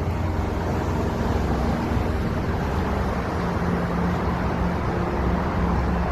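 Steady road-vehicle noise: a low engine hum under a constant hiss.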